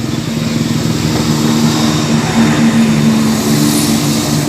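Diesel train passing over the level crossing, its engine running with a steady, loud drone and a regular low pulsing throughout.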